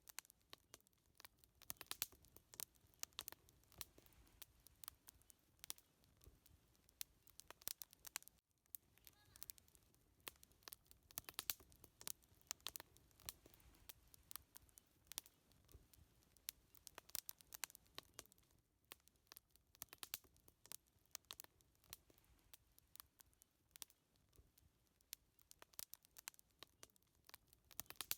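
Wood fire crackling: irregular sharp pops and snaps, several a second.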